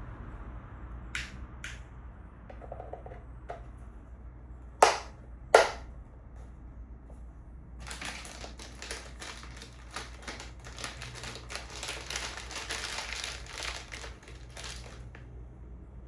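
Switches being snapped into a metal control panel: a couple of light clicks, two loud sharp snaps about five seconds in, then about seven seconds of rapid clicking and rattling as the parts are worked into place.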